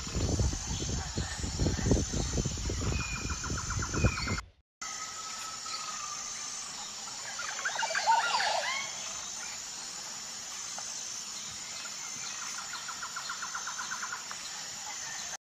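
Birds chirping and trilling, with a short burst of calls about eight seconds in. For the first four seconds a loud, low, rough animal sound runs underneath, then cuts off.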